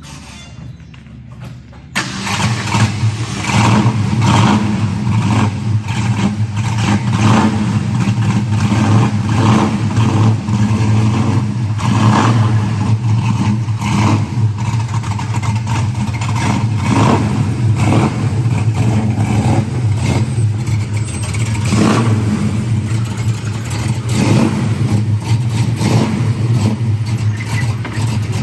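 A 1966 Ford Mustang GT's V8 starts up about two seconds in, then runs loud and uneven with the lope of a mild cam, still cold, through its old original mufflers.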